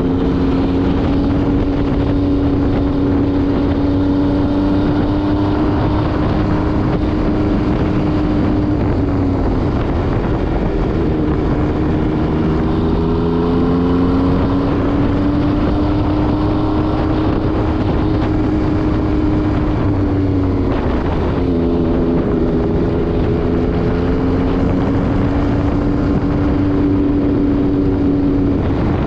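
MV Agusta Brutale 800RR's three-cylinder engine through an SC Project exhaust, running at steady revs on the road with wind rushing over the microphone. The engine note dips twice and climbs back, as the revs drop and build again.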